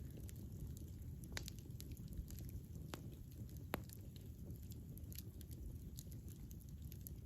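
Wood campfire burning: a low steady rumble with scattered sharp crackles and pops, the loudest pop nearly four seconds in.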